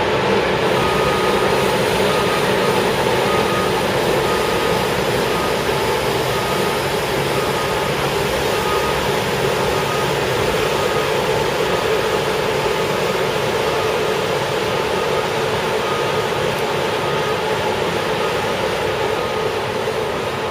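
Heavy road-paving machinery running steadily, with a backup alarm giving short, evenly repeated beeps over the engine drone.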